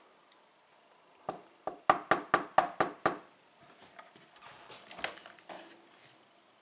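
Handling noises: a quick run of about eight sharp taps or clacks, about four a second, followed by softer rustling and crinkling.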